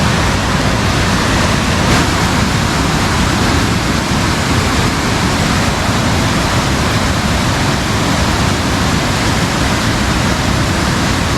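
Fast-flowing river water rushing steadily and loudly, the current swollen after rain.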